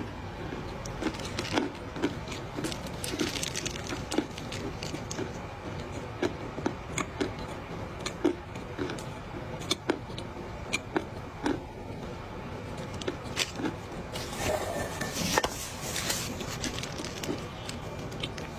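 Close-up chewing of a mouthful of dry clay: irregular crisp crunches and clicks, with longer grinding crunches about three seconds in and again around fourteen seconds.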